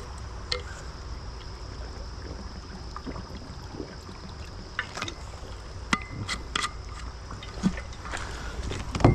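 Creek water trickling and a steady low rumble of moving air, with a faint steady high tone over it. Occasional light knocks and clicks come from gear being handled in the kayak.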